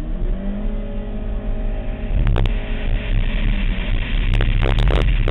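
Chevrolet Cobalt SS Turbo's turbocharged four-cylinder engine pulling hard off the start line, rising in pitch over the first couple of seconds and then holding. A few sharp clicks come about two seconds in and again near the end.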